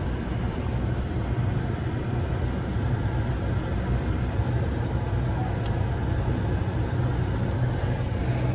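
Pickup truck engine running steadily, a low even rumble heard from inside the cab.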